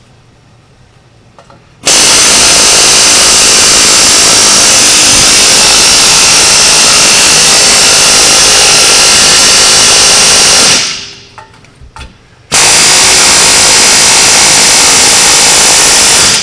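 Power tool running loud and steady in two long runs, a hissy high-pitched noise: one of about nine seconds, then after a short pause another of about four seconds.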